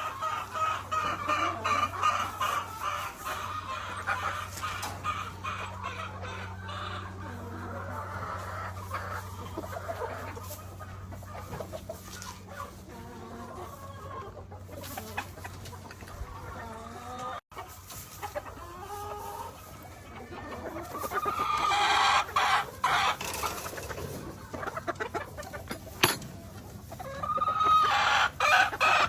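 Gamefowl roosters crowing and clucking, several birds calling over one another, loudest near the start and again in the last third. A low steady hum sits under the first half and stops at a brief break a little past halfway.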